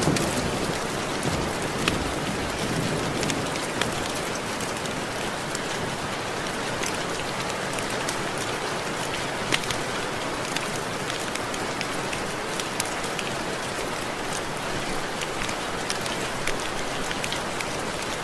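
Steady rain with many separate drops ticking on window glass. The tail of a low thunder rumble dies away in the first moment.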